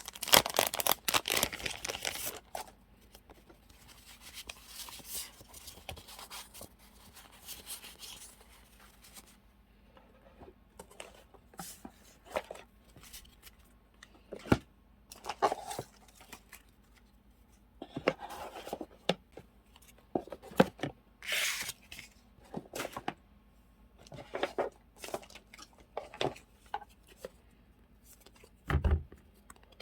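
Paper and plastic sticker packets crinkling and rustling as they are handled and sorted, densest in the first two seconds, then scattered light rustles and taps. A dull thump comes near the end.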